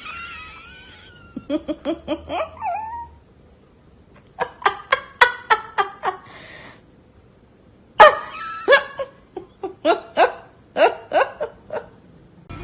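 A person laughing in three bouts of quick pulses, about five a second.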